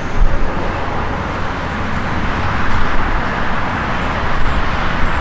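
Road traffic noise: a steady rush of passing vehicles with a low rumble, swelling around the middle as something goes by.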